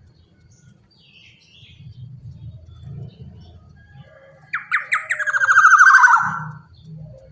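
Black-naped oriole (kepodang) calling: a few sharp notes, then a loud, harsh rasping call of rapid strokes that falls in pitch and lasts about two seconds, starting about halfway in. Fainter bird notes come before it, over a low hum.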